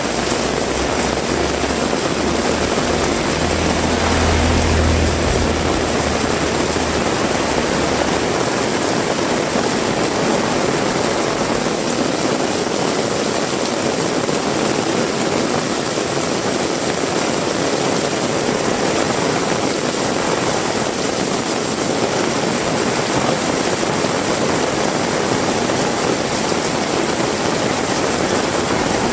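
Heavy rain falling steadily, a dense, even hiss. A low rumble rises in the first few seconds, peaks about four to five seconds in and fades out by about seven seconds, like a passing vehicle.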